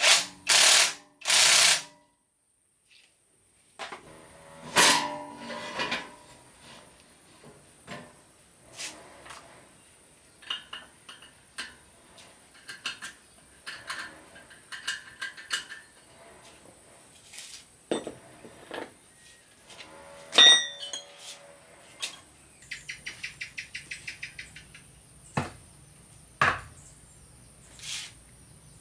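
Hand tools knocking and clinking on metal truck parts during repair work. Near the end comes a fast, even run of clicks.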